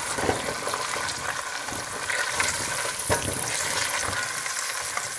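Potato chunks frying in hot oil with onions and spices in a stainless steel pot: a steady sizzle, while a silicone spatula stirs them, knocking and scraping against the pot a few times.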